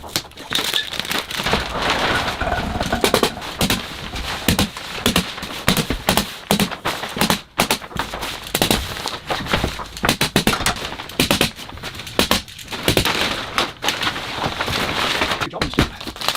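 Plastic vapor-barrier sheeting crinkling as it is handled, with many sharp snaps and cracks in quick succession.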